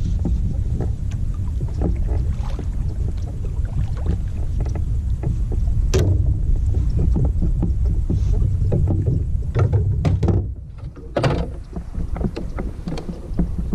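A fishing kayak on the water: a steady low rumble with many small clicks and knocks from the hull and gear. There is a sharper knock about six seconds in, then a brief lull a little past ten seconds followed by another knock.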